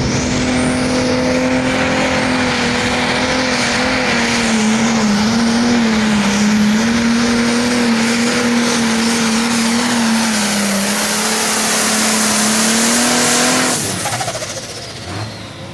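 Light pro stock pulling tractor's turbocharged diesel engine running hard under load while pulling the sled: a loud, steady drone that wavers slightly in pitch, with a thin high whistle above it. Near the end the engine sound drops off sharply.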